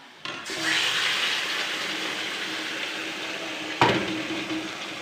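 Marinated chicken pieces tipped into hot oil and fried onions in a pan: a sizzle bursts up suddenly about a third of a second in, then settles into a steady frying hiss. A single sharp knock comes near the end.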